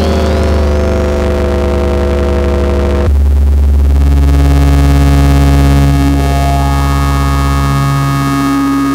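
Eurorack modular synthesizer: an Intellijel Rubicon 2 oscillator through a Morgasmatron dual filter, playing a sustained drone with a heavy bass. Its timbre changes abruptly about three seconds in, and new held notes come in around four and six seconds.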